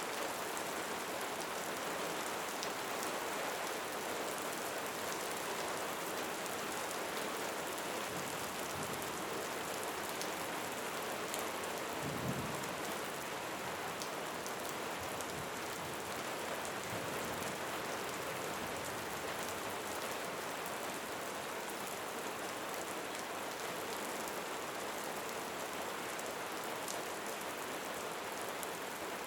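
Steady rain falling and pattering on surfaces, an even hiss with scattered drop ticks. About twelve seconds in comes a single brief low thump.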